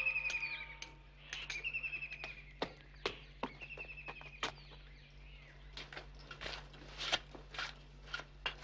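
A bird calls three times in the first half, each a short falling trill, among scattered light clicks. From about halfway on comes a run of scuffing footsteps, roughly two a second.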